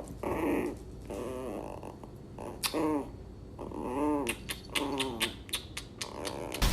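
A dog vocalising in a series of short whines, each rising and then falling in pitch, with a few light clicks near the end.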